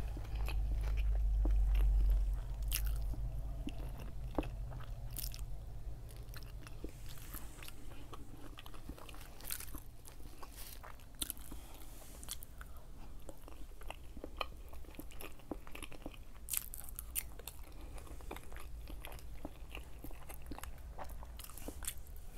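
A person chewing mouthfuls of food close to a clip-on microphone, with many short wet mouth clicks and smacks scattered throughout. A low rumble fills the first two seconds or so.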